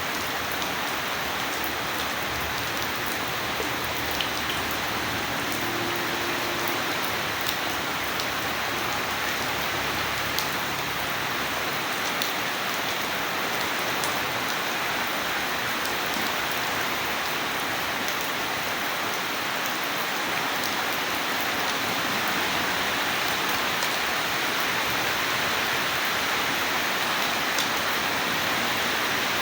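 Steady heavy rain falling and pattering on surfaces, with now and then a single sharper drop ticking close by. It grows a little louder over the last several seconds.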